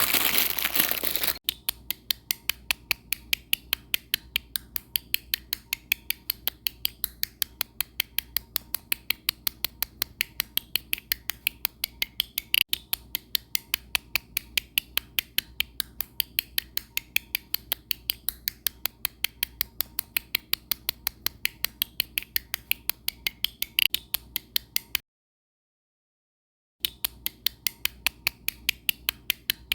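Steady, evenly spaced clicking, about four sharp clicks a second, over a faint low hum; a short burst of noise opens it, and the clicking drops out for about two seconds near the end before resuming.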